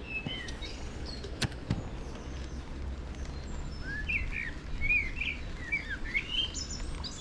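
A songbird chirping: a quick run of short, sweeping calls about four seconds in, with a few more at the start, over a steady low rumble. A sharp click about a second and a half in.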